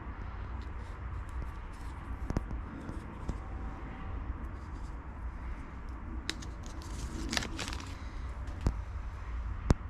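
Scattered light clicks and taps of small metal AN fittings being handled and fitted to a fuel filter, with a quick cluster of clicks about seven seconds in, over a steady low background rumble.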